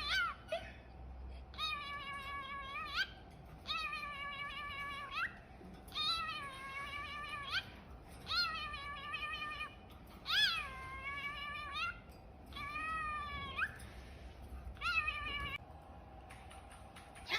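A series of about eight drawn-out meows, each a second or so long, the pitch sagging and then turning sharply upward at the end of each.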